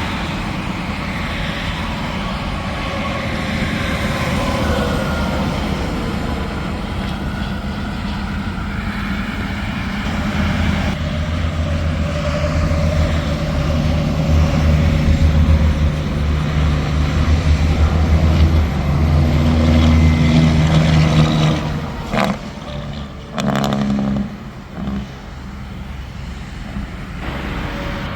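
Interstate traffic: tractor-trailers and cars passing at highway speed, with tyre noise and diesel engine drone. One truck passes loudest from about 11 seconds in, then the sound drops away abruptly around 22 seconds.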